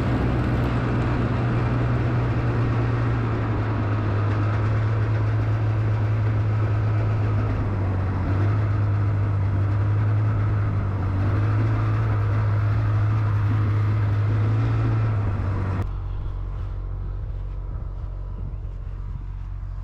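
Diesel tractor engine running steadily at a constant speed. About four seconds before the end the sound drops suddenly to a quieter low rumble with a few faint clicks.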